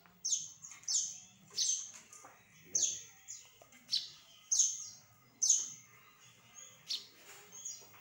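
Bird chirping: about a dozen short, sharp high calls, each sliding quickly down in pitch, repeated irregularly roughly once a second.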